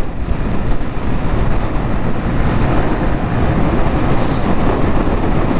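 Steady rush of wind and road noise from a motorcycle riding at speed, picked up by the rider's helmet microphone, with strong gusts buffeting the bike.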